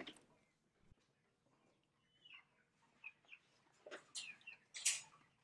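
Faint bird calls: a short falling chirp about two seconds in, then a few brief chirps, with some rustling and a sharp click near the end.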